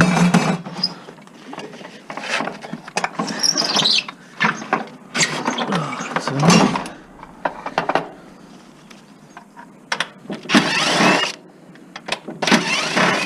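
Metal parts being scraped, shifted and pried during the dismantling of a table saw for scrap, in irregular bursts with a few short squeaks about four and six and a half seconds in, and two longer harsh scrapes near the end.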